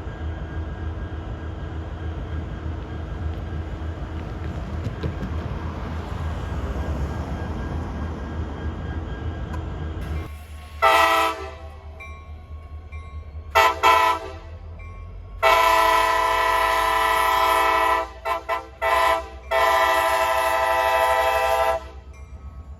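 Passing train: a steady low rumble of the locomotive and cars, then its multi-note air horn sounds two short blasts followed by two long ones, with brief stuttered blips between the long ones.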